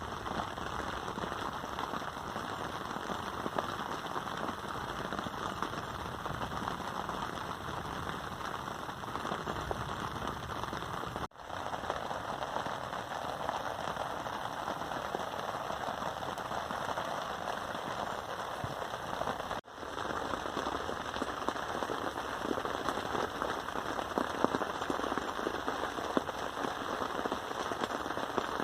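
Steady rain falling, with many separate drop hits. It breaks off for an instant twice.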